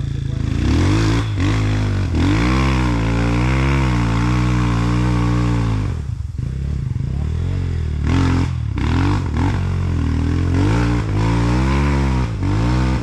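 Sherco 300cc two-stroke enduro motorcycle engine being ridden on the throttle, revs rising and falling over and over. The throttle is briefly closed about six seconds in and again a couple of seconds later, before the revs climb again.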